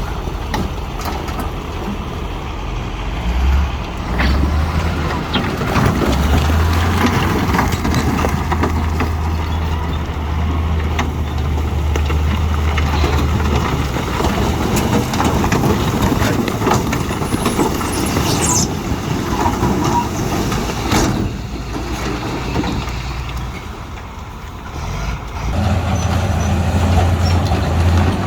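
Heavy diesel earthmoving machinery working, its engine droning low and strengthening a few seconds in, easing for a moment and coming back near the end. A single sharp knock sounds about three-quarters through.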